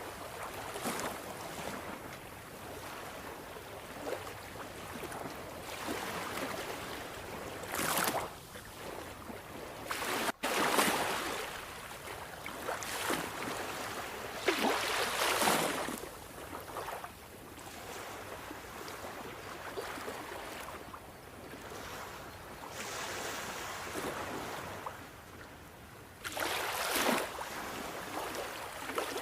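Sea waves breaking and washing up the shore in a steady hiss of surf. Louder surges come every few seconds, the strongest about 11, 15 and 27 seconds in. A split-second dropout comes about ten seconds in.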